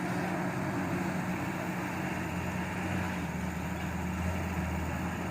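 Diesel engine of a Hino 500 dump truck running steadily.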